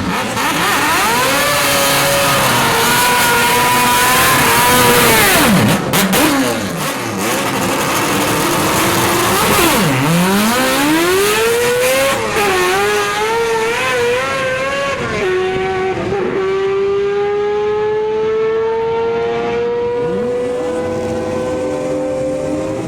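Mazda 787B-type four-rotor racing rotary engine in an RX-3 being driven hard. It revs up and falls back repeatedly as it goes through the gears, with a few sharp pops about six seconds in. In the second half it holds a long, steady climb in pitch.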